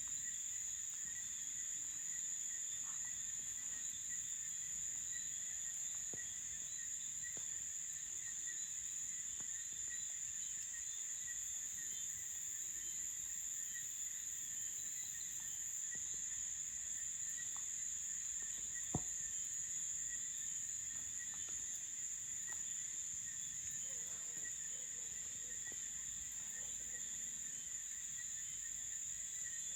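Night chorus of crickets and other insects: a steady high-pitched drone with pulsing chirps beneath it. A single sharp click sounds about two-thirds of the way through.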